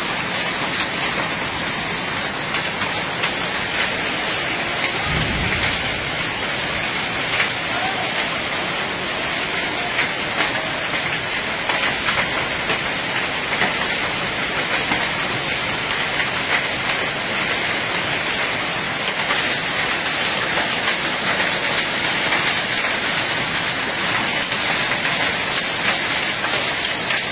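Heavy rain pouring steadily onto brick paving, a dense hiss full of sharp drop hits. A brief low rumble comes about five seconds in.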